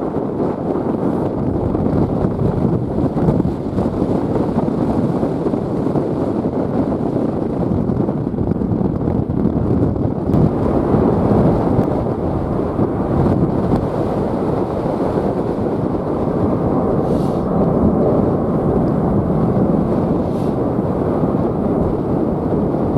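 Strong wind buffeting the microphone in a steady, loud rumble, mixed with the roar of jet airliner engines at takeoff power.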